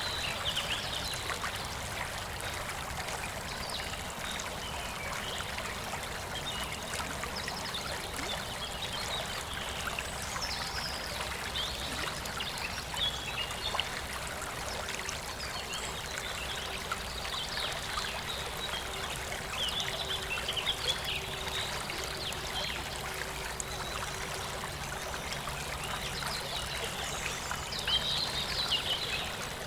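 Clear river water flowing and trickling steadily, with brief brighter splashy patches now and then.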